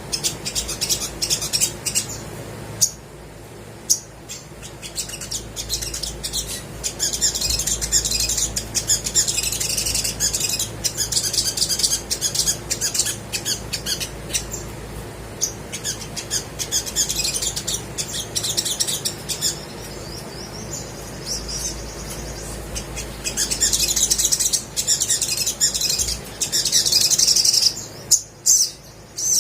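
Olive-backed sunbird singing: rapid, high-pitched twittering and chattering in long bursts, with a few short breaks.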